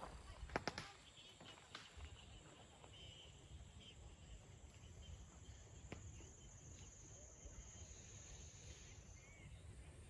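Near silence with a faint, steady high-pitched tone that fades out near the end, and a few soft clicks about half a second in and again around six seconds in.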